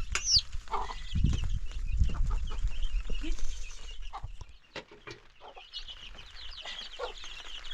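Short bird calls, clucks and chirps, one a high falling chirp just after the start, over a low rumble that dies away about halfway through.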